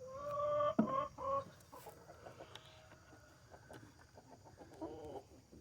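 Chickens calling: one drawn-out call lasting most of a second, two short calls right after it, then a brief call near the end.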